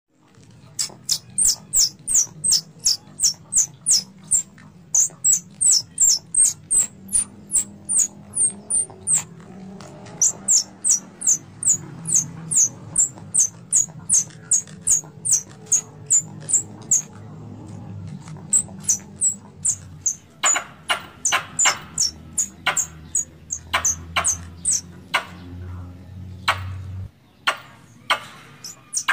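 Tree squirrel (bajing) call used as a hunting lure: rapid, sharp, high chips, about three or four a second, in runs broken by short pauses. From about two-thirds of the way through, the chips turn harsher, with a lower rasping edge.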